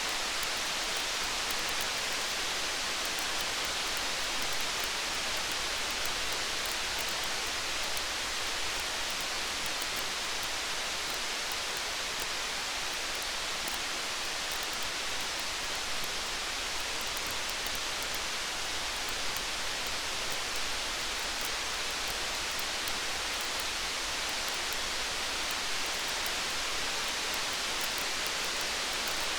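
Steady rain hiss, with a campfire crackling faintly in scattered small ticks under it.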